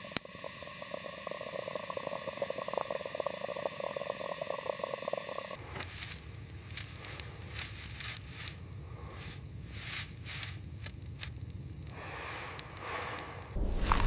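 Crackling and rustling noises made of many fine ticks, changing abruptly to scattered scrapes and clicks about five and a half seconds in, with a louder low rushing noise starting near the end.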